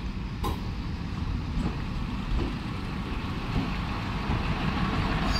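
DEMU train rolling past, with a few wheel clicks over rail joints, then the diesel power car's engine running louder as it goes by in the second half.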